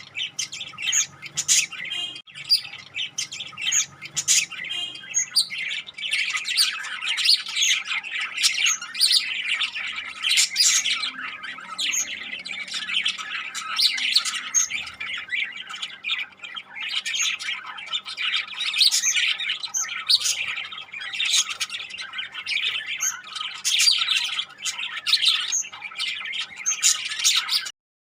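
A group of small pet parrots chattering, with rapid, overlapping high chirps and squawks; it cuts off abruptly near the end.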